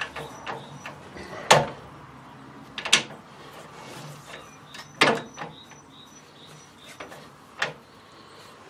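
Four sharp knocks and clanks spaced a second and a half to two and a half seconds apart, over a low steady workshop background: metal parts and tools being handled while a tight-fitting threaded adapter is tried and checked.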